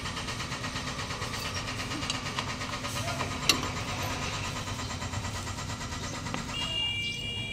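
An engine running steadily, with a single sharp click about three and a half seconds in and a brief high tone near the end.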